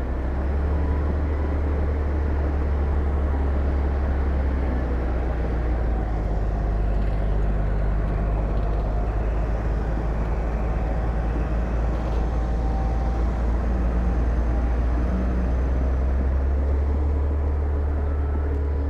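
Heavy diesel engine of earthmoving machinery running steadily under load: a deep, continuous drone with rough mechanical noise over it.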